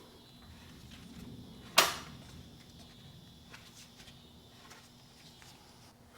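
A Yanmar 1500 diesel engine, stiff and loosening up, being turned over by hand through its fan belt: faint rubbing and turning, with one sharp click about two seconds in.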